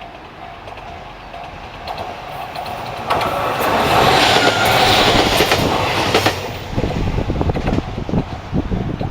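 A train passing close by: the sound builds up, stays loud for about three seconds, then the wheels clack over the rail joints in a quick run of knocks as the cars go by.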